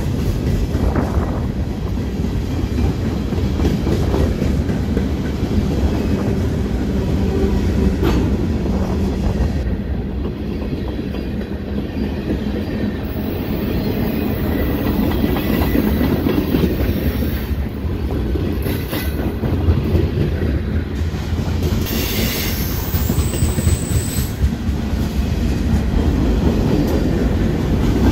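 Freight cars rolling past close by: a steady rumble of steel wheels on rail with the clickety-clack of wheels over rail joints. A brief high-pitched squeal from the wheels comes in about three quarters of the way through.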